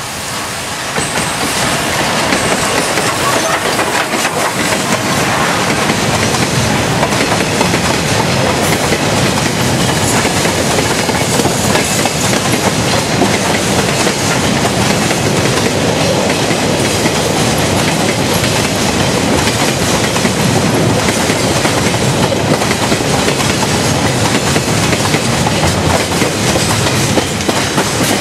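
Freight train passing close by behind an SY-class 2-8-2 steam locomotive: a long string of covered freight wagons rolling past on the rails, loud and steady, building up about a second in.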